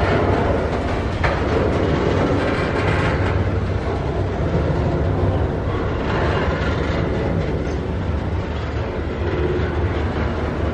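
Double-stack container well cars rolling past: a steady rumble and clatter of steel wheels on the rails, with one sharp click about a second in.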